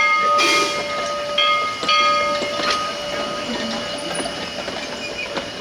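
Steam locomotive whistle sounding several tones at once in short blasts, with puffs of steam hiss, then fading away over the last couple of seconds.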